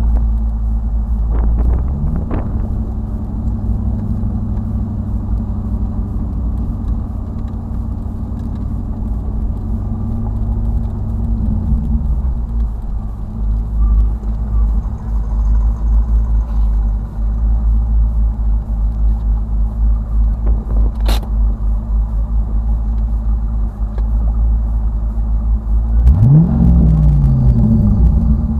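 C5 Corvette's V8 engine rumbling at low speed, heard from inside the cabin. The revs rise briefly about two seconds in, drop away near the middle, and climb again near the end as the car pulls away. There is one sharp click about two-thirds of the way through.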